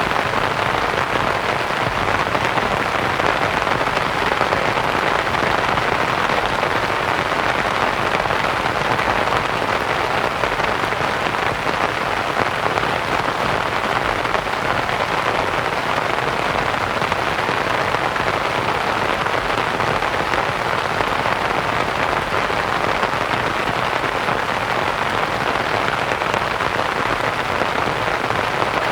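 Steady rain pattering on a canvas tent, mixed with a soft even white-noise hiss.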